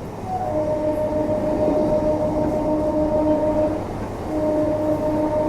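Electric local train running at speed, with a steady droning tone over the running noise that breaks off briefly about four seconds in and then resumes.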